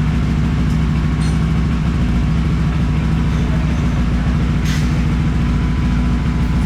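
Kawasaki ER-6N's 649 cc parallel-twin engine idling steadily through a gutted end can and custom midpipe, with a short hiss about two-thirds of the way in.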